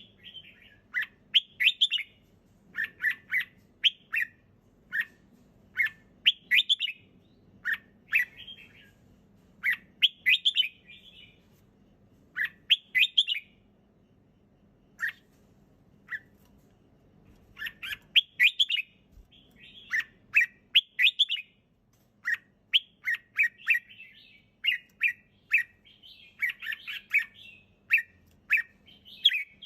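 Red-whiskered bulbul singing: short phrases of bright, clear notes repeated every second or two. There is a sparser stretch of single notes about halfway through, and a faint steady low hum underneath.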